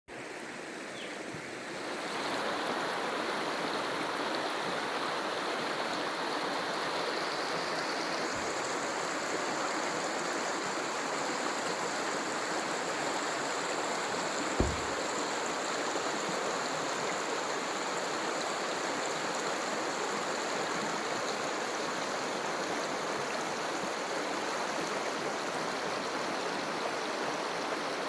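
Steady rushing of running water, like a stream, fading in over the first two seconds. One brief low thump about halfway through.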